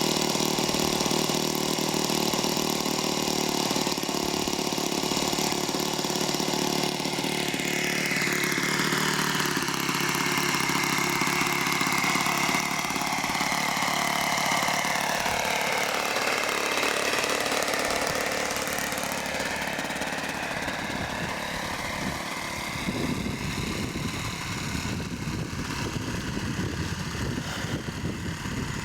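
Saito 40 four-stroke glow engine of a radio-controlled model plane running. Its pitch falls smoothly over several seconds and then climbs again. A low rumbling noise joins in for the last few seconds.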